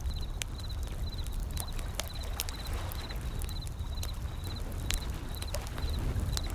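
Wood fire crackling with sharp irregular pops over the low, steady rumble of ocean waves rolling in. A high chirping repeats rhythmically, about twice a second, throughout.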